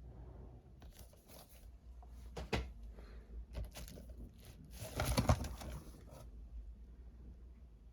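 Packaging and plastic disc cases being handled: a series of rustles and clicks, busiest about five seconds in.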